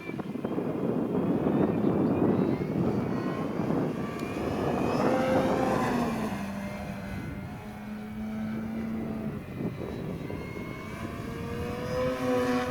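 Radio-controlled model airplane's motor and propeller droning, its pitch sliding up and down as it flies. A rushing noise fills the first half.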